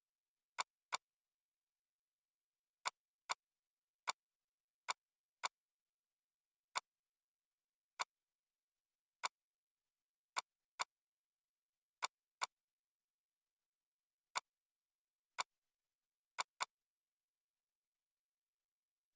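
Computer mouse clicks, about eighteen sharp single clicks at irregular spacing, several in quick pairs like double-clicks, with dead silence between them.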